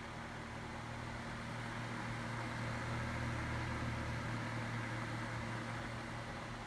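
Holmes Lil-Blizzard desk fan running on high: a steady motor hum under a rush of moving air, growing a little louder midway and easing off again.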